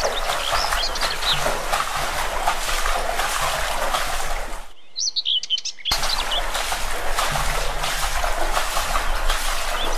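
Splashing water from someone swimming, over birds chirping. The water noise cuts out for about a second midway, leaving only the birdsong.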